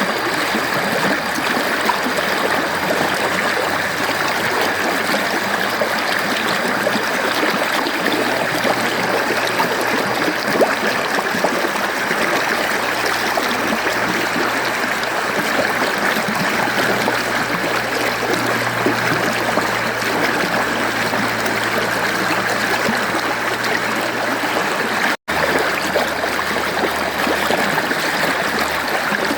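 Mountain stream flowing, a steady continuous rush of water, broken once near the end by a split-second gap in the sound.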